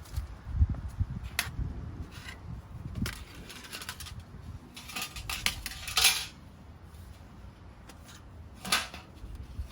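Irregular sharp clicks and light clattering of hard objects being handled, with a cluster of clicks around the middle and soft low thumps between them.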